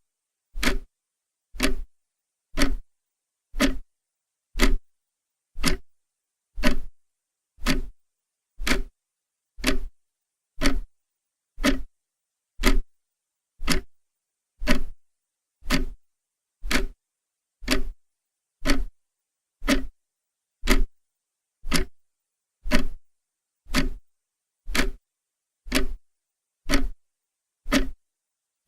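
Clock ticking steadily, one sharp tick a second, with silence between ticks.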